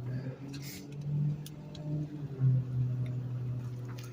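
Garbage truck running with a steady low hum that swells briefly twice, with a few light ticks.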